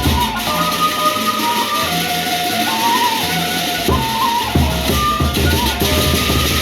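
Gendang beleq ensemble playing: large Sasak drums and cymbals beat under a sustained, sliding melody line. The deepest drum strokes drop out for about two seconds near the middle, then return.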